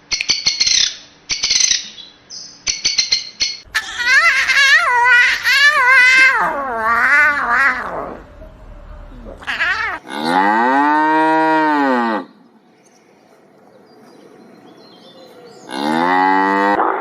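A run of different animal calls: short squawking chirps at first, then a long wavering call that falls in pitch, then a cow mooing once, the loudest call, about ten seconds in. After a quiet gap another long call begins near the end.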